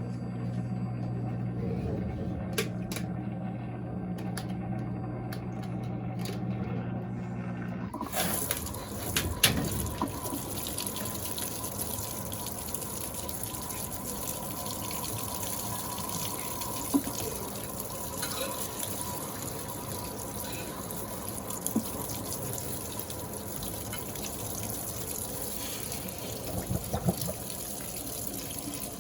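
Electrolux LTA15 top-load washing machine: a steady motor hum for the first eight seconds stops with a couple of knocks. Then water rushes steadily into the tub as it fills for the first rinse.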